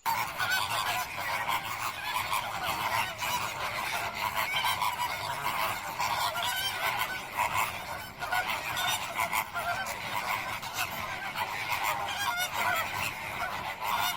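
A flock of flamingos calling together: a dense, steady din of overlapping goose-like honks.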